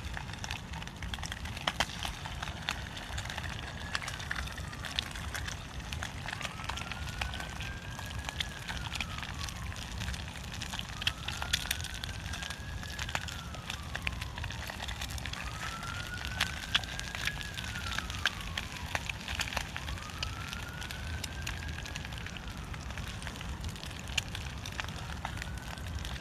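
Wood fire crackling in a Firebox wood-burning stove, with sharp pops throughout. A faint siren wails, slowly rising and then falling in pitch about every four and a half seconds.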